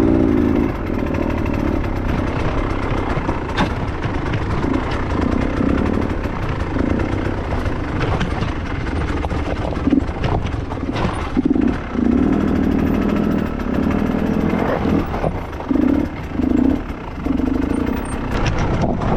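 Dirt bike engine revving in short throttle bursts on a steep rock trail, with a few sharp knocks of the bike against rock.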